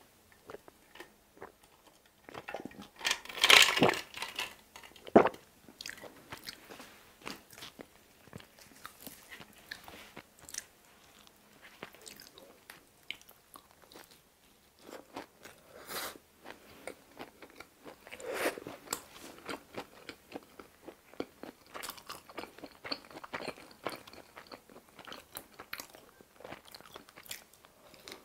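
Close-miked eating: a person biting and chewing pizza with a stuffed crust, many small crunchy, wet mouth clicks. A louder burst comes about three seconds in.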